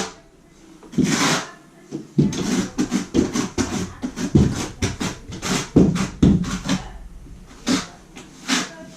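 Trowel working thinset mortar: a quick, uneven run of short scrapes and taps, densest in the middle.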